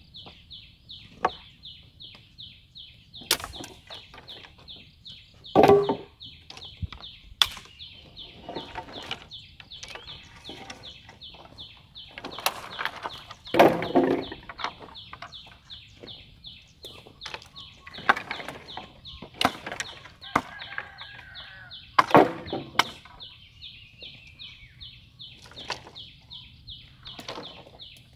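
Chickens clucking now and then, with a few louder calls, over a steady high chirping that pulses about four times a second.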